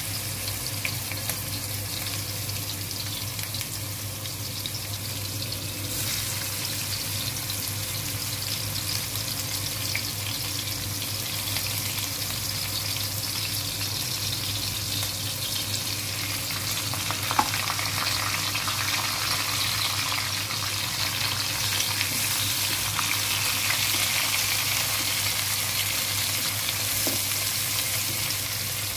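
Ground spice paste, shallots and chillies sizzling in hot oil in a wok, a steady frying hiss that grows a little louder partway through. There is one sharp click about 17 seconds in, and a wooden spatula stirs it near the end.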